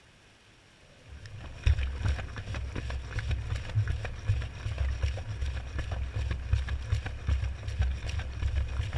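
Washing machine drum, heard from inside, starting to turn again after a pause: wet washcloths and soapy water slosh and tumble against the drum, with a low rumble and irregular knocks and clicks.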